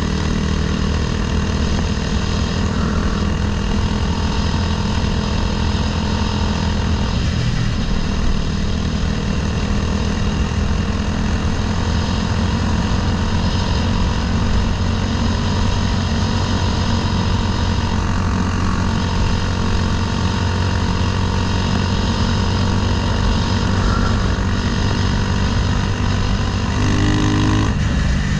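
Honda CBR300R single-cylinder engine swapped into a Honda Grom, running steadily under way, with a brief rise in engine pitch near the end.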